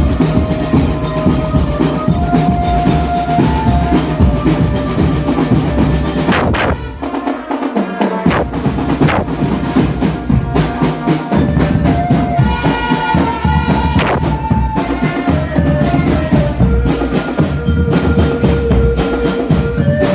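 Marching drum band playing: a fast run of snare and bass drum strokes with a melody in held notes on top. The low drums drop out briefly about seven seconds in, then come back.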